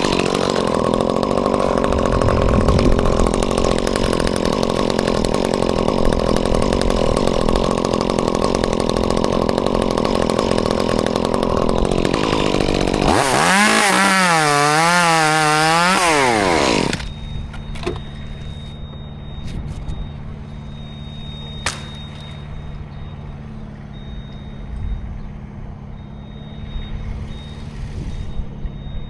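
Chainsaw running steadily at high revs, then revved up and down several times before it stops, about two-thirds of the way through. A steady, quieter low engine hum carries on after it.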